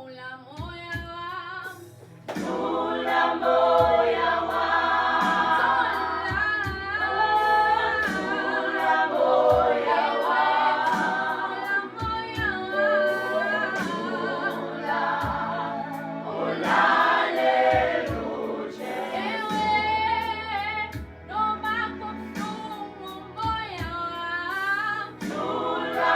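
Youth choir singing a gospel song, the voices swelling markedly louder about two seconds in.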